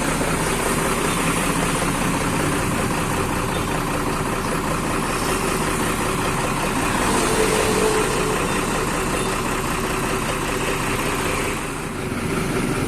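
Engine of a truck-based bus idling steadily through a newly fitted aftermarket "serigala" exhaust.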